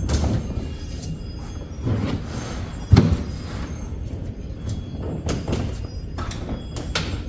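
Handling noises from fitting a soft truck-bed topper: scattered knocks and clicks, with one loud thump about three seconds in.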